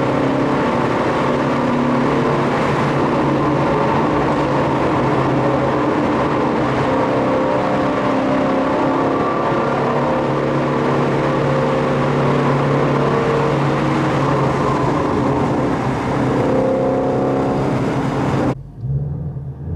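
Car engine and road noise while driving, a loud steady drone with a low engine hum. It cuts off suddenly near the end.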